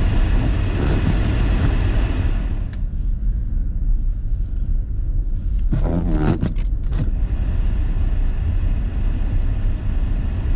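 Steady low rumble of a car's engine and tyres on a snowy road, heard inside the cabin. A louder hiss drops away about two and a half seconds in, and a brief pitched, wavering sound with a few clicks comes around six seconds.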